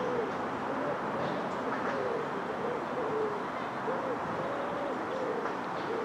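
A bird cooing: low hooting notes, each a short rise and fall in pitch, repeated about twice a second over a steady background hiss.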